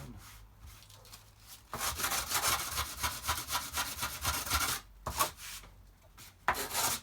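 Sandpaper on a wooden block rubbed quickly back and forth over a wooden toolbox panel for about three seconds, then a couple of short separate scrapes near the end.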